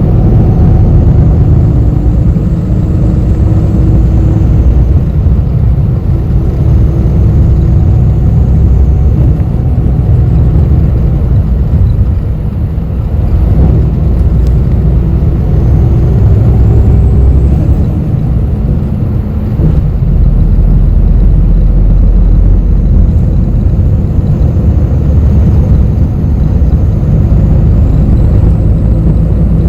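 Cabin noise inside a moving city bus: a steady low engine and road rumble with a faint engine hum that shifts in pitch. The noise dips briefly about twelve seconds in.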